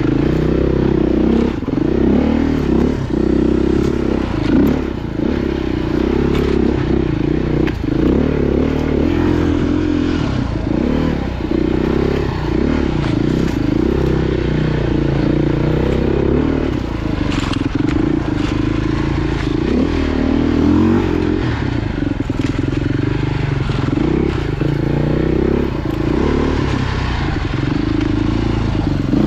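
Off-road motorcycle engine running hard on a trail, its revs rising and falling over and over as the throttle is worked, with clattering and scraping mixed in.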